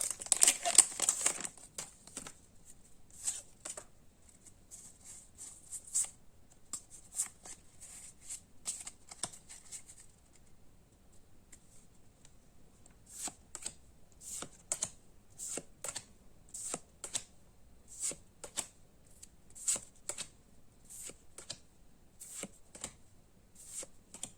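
Pokémon trading cards handled one at a time, each card giving a short crisp flick, with a pause about halfway through. The first second and a half is crinkling from the foil booster wrapper.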